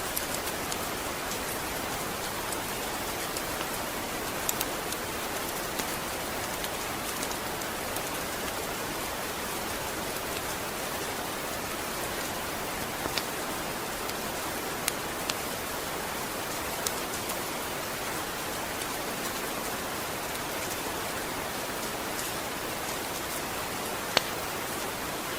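Steady rain, an even hiss of falling drops with scattered sharper drip ticks, a few of them louder.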